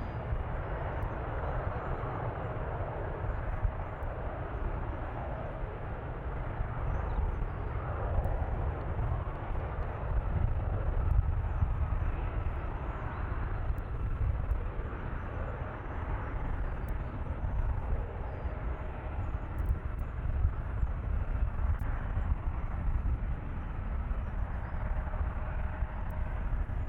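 Jet airliner engines heard from the ground as a steady rumble with a broad rushing hiss above it, holding at much the same level throughout.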